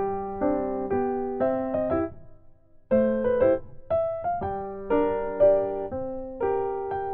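Background piano music: soft chords struck one after another, each fading away, with a brief pause about two seconds in before the playing resumes.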